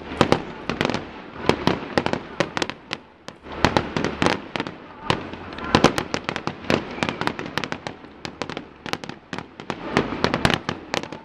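Aerial fireworks bursting in rapid, irregular succession: many sharp bangs and cracks, several a second, easing briefly about three seconds in.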